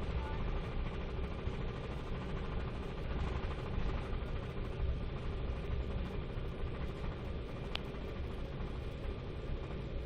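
Steady cabin noise inside an Embraer 195 airliner: the low rumble of its General Electric CF34-10E turbofan engines and airflow, with a brief tick near the end.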